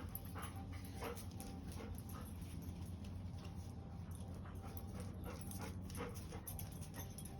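Faint sounds from a pet dog, over a steady low hum.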